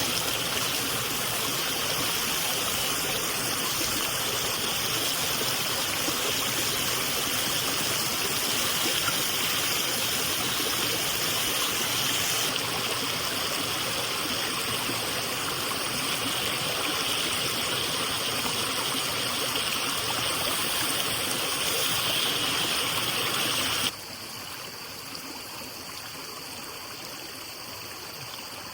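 Running water rushing steadily, then dropping suddenly to a quieter level a few seconds before the end.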